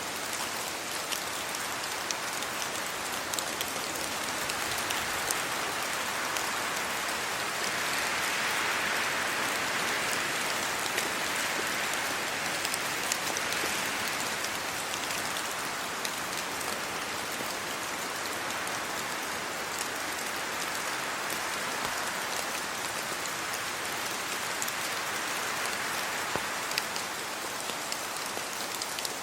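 Steady rain falling on trees and leaves, a continuous rush dotted with sharp ticks of single drops. The rush swells for several seconds about a third of the way in.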